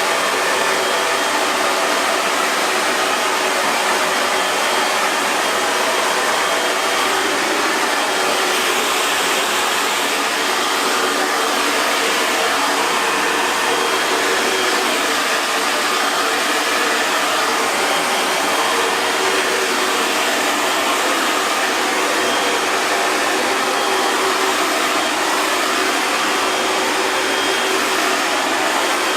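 Hair dryer running steadily at a constant speed: an even rushing hiss of blown air with a faint high whine from the motor.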